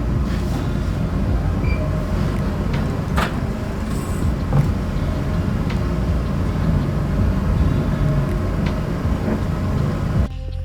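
Vehicle being driven, heard from inside: a steady low rumble of engine and road with scattered short clicks and rattles. It cuts off suddenly just before the end, where background music comes in.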